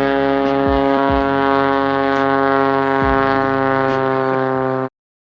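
Aircraft engine droning loudly at a steady pitch, cutting off suddenly near the end.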